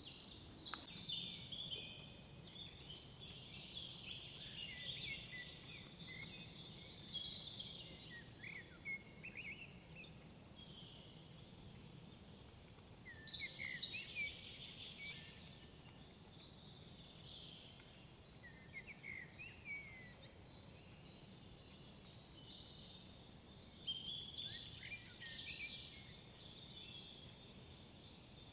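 Songbirds singing in a forest: several short phrases of two to three seconds each, some ending in a high trill, with pauses of several seconds between them, over a faint steady background rumble.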